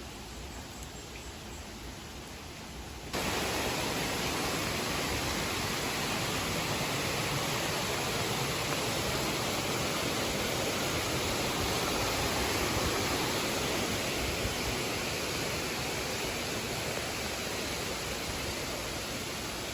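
Steady rushing noise of flowing water, getting suddenly louder about three seconds in and then holding steady.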